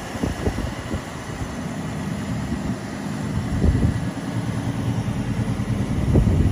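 A 1969 Plymouth Fury III's engine idling: a low, uneven rumble that swells briefly about halfway through and again near the end.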